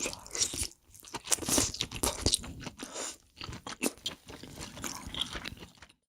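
Close-miked eating of king crab: crunching, biting and chewing in quick, irregular crackles. The sound cuts off abruptly just before the end.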